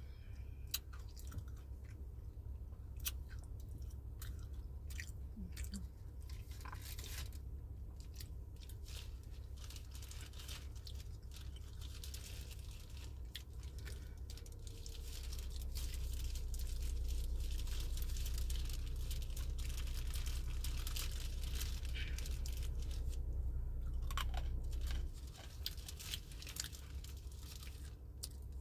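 A person chewing and crunching crunchy food close to the microphone, with many sharp crisp crunches. Underneath runs a steady low hum that grows louder about halfway through and drops off suddenly near the end.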